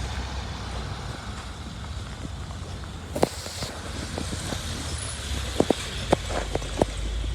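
City bus engine running with a steady low rumble, with several sharp knocks and rattles from the bus interior, mostly in the second half.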